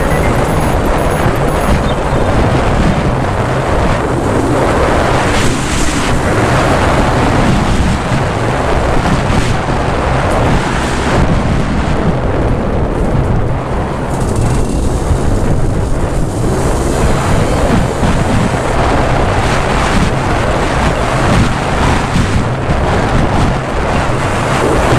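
Wind buffeting the microphone over the running engine of an Aprilia ETX Tuareg 125, a two-stroke single-cylinder enduro motorcycle, while it is ridden off road.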